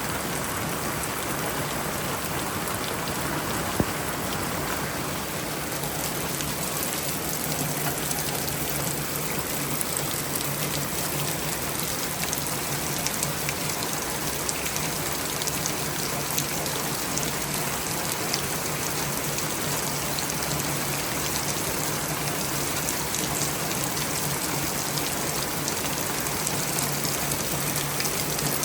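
Steady rain falling, an even hiss scattered with many small drop ticks, with a low steady hum underneath.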